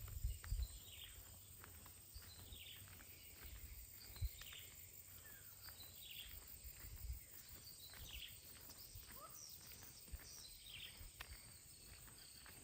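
A bird repeatedly calling a short, falling note, roughly once a second, over faint outdoor ambience, with soft walking footsteps on the path.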